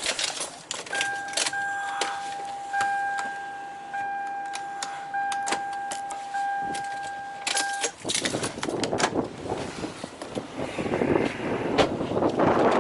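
A steady high-pitched tone holds for about seven seconds and then cuts off suddenly, over scattered clicks and footsteps. A rush of wind-like outdoor noise rises near the end.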